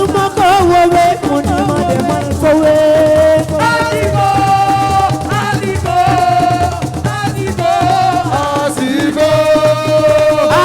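Live Senegalese assiko music: a voice holding long, wavering, gliding notes over steady hand-drum and shaker percussion.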